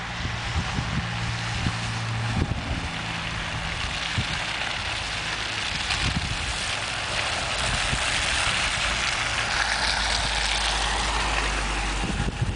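2009 Dodge Challenger SRT-8's 6.1-litre Hemi V8 running as the car drives up, getting gradually louder as it approaches.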